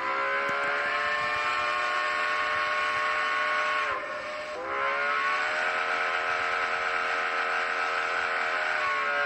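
Multi-chime steam locomotive whistle sounding two long blasts. A chord of several steady tones sags in pitch and breaks about four seconds in, then sounds again and holds.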